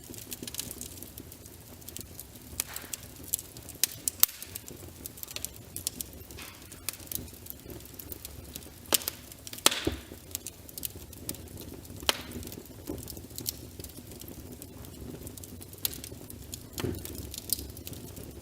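Wood fire in a fireplace crackling, with irregular sharp pops and snaps over a low steady rumble of the flames; a cluster of louder pops comes about nine to ten seconds in.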